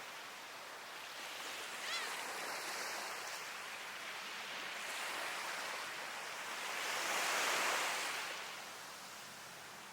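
Sea waves washing onto the shore, swelling to a louder rush of surf about seven seconds in and then fading. A short gull call about two seconds in.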